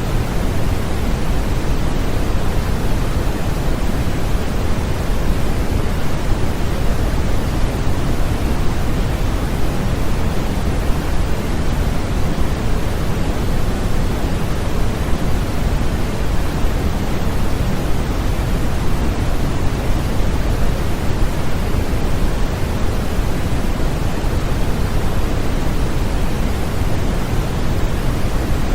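Steady generated noise for baby sleep: an even, unbroken hiss with no changes, heaviest in the low range and thinning toward the top.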